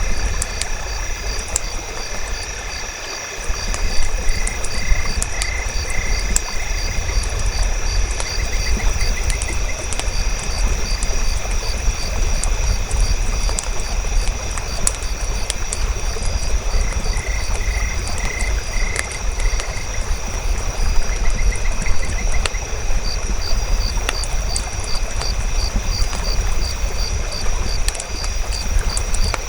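Campfire-and-nature ambience: a steady high trilling of calling creatures, with two runs of short pulsed calls, over a low rumble scattered with the small crackles of a burning fire.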